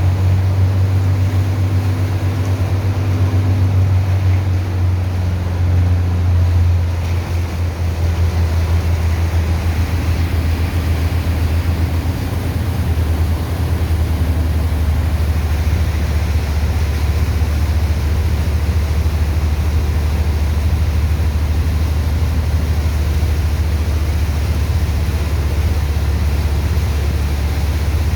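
Engine of a sand-dredging pump running steadily with a deep, loud drone while it pumps sand off a ship; its note drops slightly about eight seconds in.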